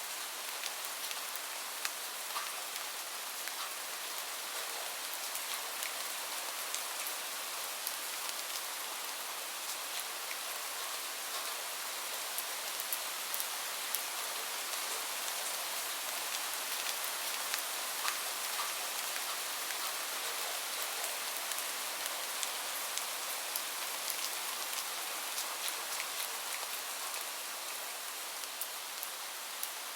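Steady rain falling on a surface: an even hiss with many small, sharp drop ticks throughout.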